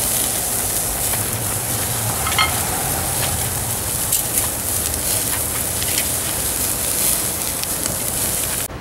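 Burgers sizzling on a grill, a steady hiss with scattered sharp crackles, cutting off abruptly near the end.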